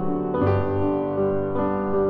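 Soft background music played on piano, with new notes coming in about every second.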